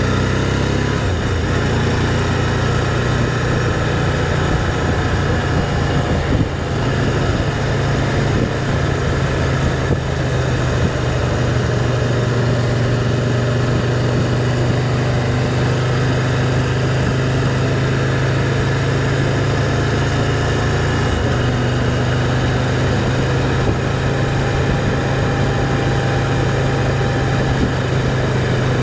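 A motorcycle engine running steadily under way. Its strong low hum holds an even pitch, with a brief dip about six seconds in.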